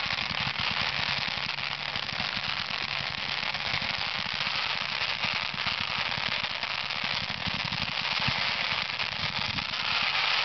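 Fireworks going off in a rapid, continuous barrage of small reports and crackling.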